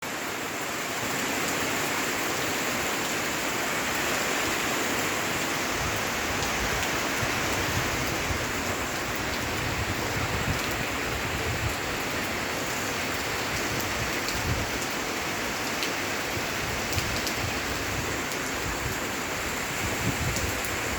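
Rain falling steadily in a storm, with scattered drops ticking.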